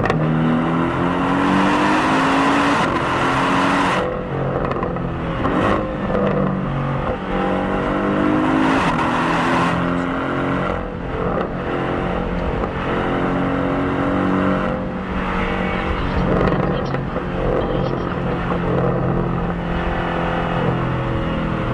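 2018 Porsche 718 Cayman's turbocharged 2.0-litre flat-four, stock exhaust without the sport option, heard from the rear bumper mixed with cabin sound. Under way, its pitch climbs for a few seconds, drops sharply about four seconds in, then rises and falls again and again with throttle and gear changes.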